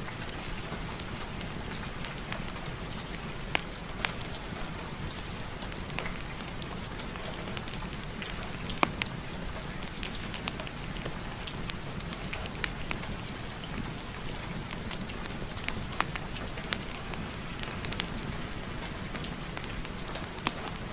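Steady rain, with sharp, irregular crackles and pops of a wood fire in a fireplace scattered through it.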